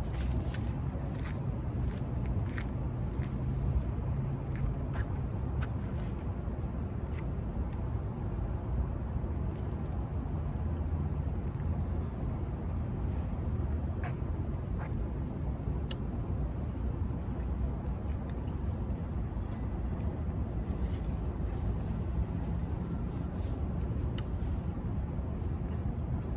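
Chewing, with faint scattered clicks and smacks of eating, over a steady low rumble.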